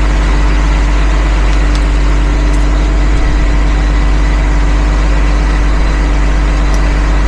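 Mini excavator engine idling steadily, with a few faint clicks over the top.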